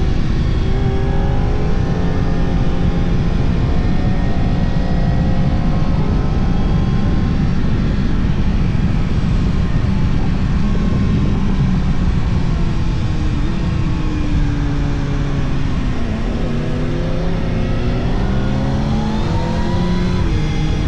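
Yamaha R1's inline-four engine running on the road, its pitch falling and then climbing again with throttle and gear changes. A steady low rumble of wind noise lies underneath.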